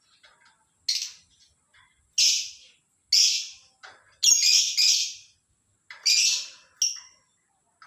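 Lovebird giving a run of about seven loud, shrill, harsh calls, each short and roughly a second apart, two of them in quick succession midway.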